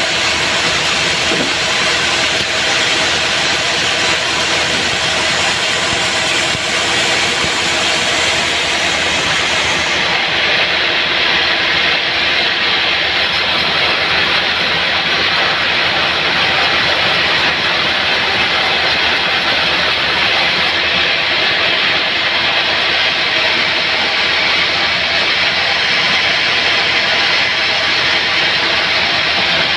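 Home-built bandsaw sawmill running steadily, sawing through mahogany or acacia logs: a loud, continuous machine noise with a steady hum beneath.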